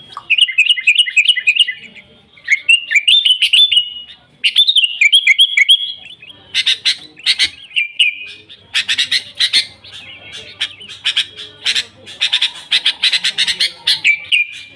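Sooty-headed bulbul (kutilang) singing vigorously: short bubbling phrases of quick rising and falling notes, then from about six seconds in a fast, dense run of chattering notes.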